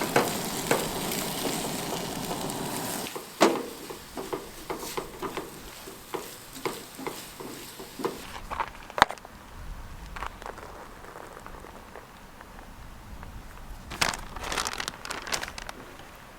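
Food sizzling in a frying pan for the first three seconds, stopping abruptly, followed by scattered clicks and knocks of cookware and utensils being handled, with a sharp knock about nine seconds in and a cluster of clicks near the end.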